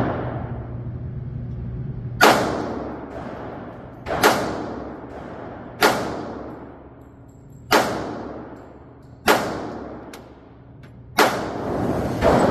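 Gunshots fired one at a time at a target: six shots about two seconds apart, each followed by a ringing tail.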